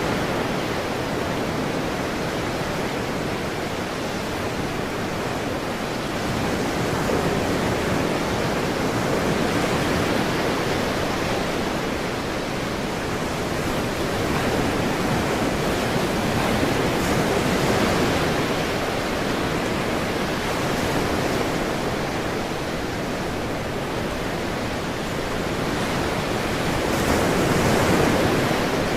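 Ocean surf: waves breaking and washing in a continuous rush, swelling and easing every several seconds.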